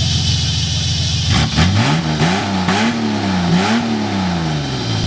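1984 AMC Eagle wagon's engine running steadily, then about a second in revved hard, its pitch rising and falling several times, with bursts of rushing noise.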